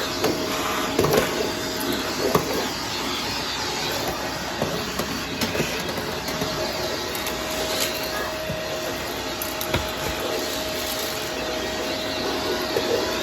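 Upright vacuum cleaner running with its brushroll spinning: a steady motor whine under a scatter of sharp clicks and crackles, debris rattling up into the vacuum.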